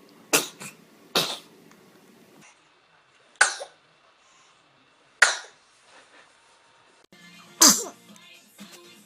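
Sneezes: five short, sharp sneezes spread a second or two apart, with a smaller one just after the first.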